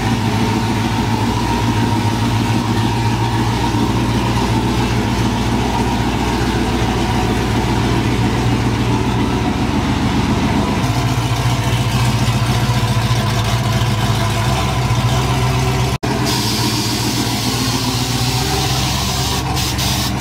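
A car engine running at a steady idle. The sound briefly cuts out about sixteen seconds in, then resumes with more hiss.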